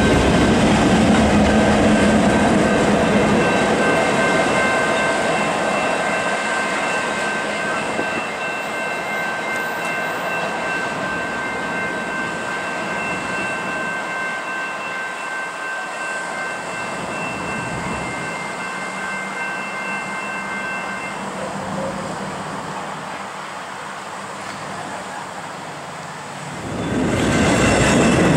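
A consist of EMD diesel locomotives running light rumbles past and fades into the distance, its engine hum dying away, with a thin steady high whine until about two-thirds of the way through. Near the end a double-stack intermodal container train rolls past close by, suddenly loud.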